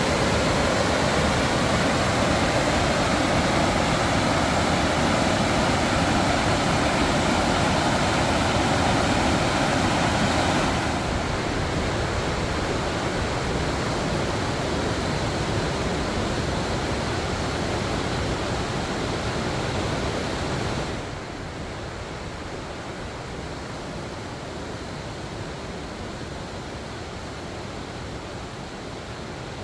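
Amable Du Fond river rapids in spring flood, rushing loudly and steadily. The sound steps down abruptly in level twice, about a third of the way in and again about two-thirds in.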